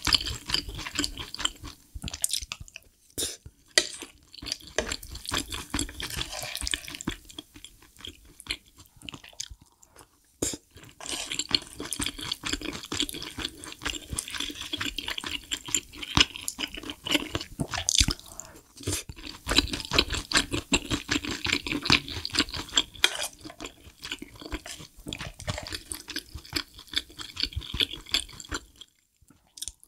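Close-miked chewing of mapo tofu made with soft tofu, mixed with shrimp fried rice, in runs broken by short pauses, with the spoon scraping and tapping the plate as more is scooped up.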